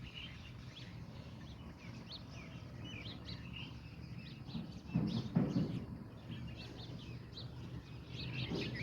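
Bulbul singing in short, quick chirping notes over a steady low background noise. About five seconds in, a loud low rumble lasts under a second.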